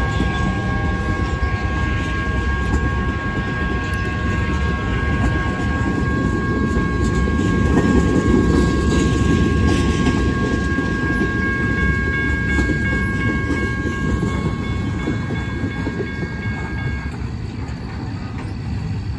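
Loaded flatcars of a BNSF welded-rail train rolling past, with a steady rumble of wheels on rail and some clacking, loudest about eight to ten seconds in and fading as the last cars pull away. Steady high-pitched tones ring over it and stop shortly before the end.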